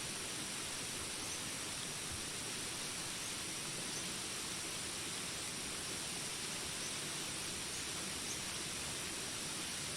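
Steady rain hiss with a continuous high-pitched insect drone in jungle ambience, and a few faint short chirps scattered through.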